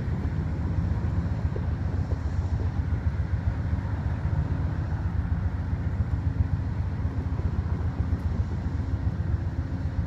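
Steady low rumble of a road vehicle's engine running.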